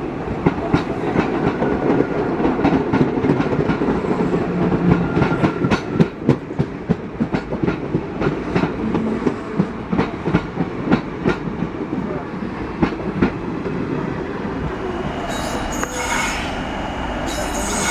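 Train running on the rails, its wheels clicking over the rail joints again and again for the first dozen seconds, with a steady rumble underneath. High-pitched wheel squeal comes in twice near the end.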